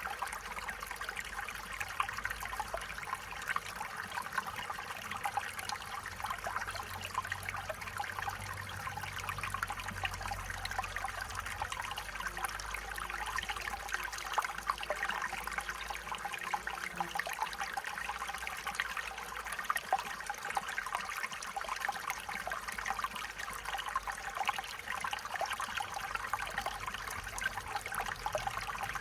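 A small stream trickling and babbling over stones, a steady splashing rush with many small gurgles.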